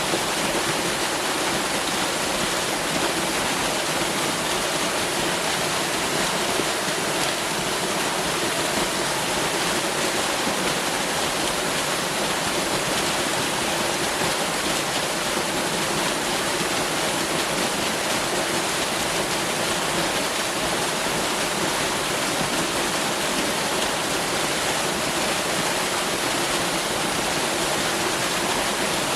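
Waterfall: water falling and rushing in a steady, unbroken hiss and rumble.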